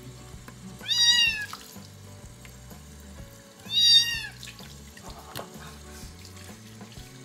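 A month-old kitten meowing twice, two high-pitched calls about three seconds apart, while it is washed under a running tap. Tap water runs into the sink throughout.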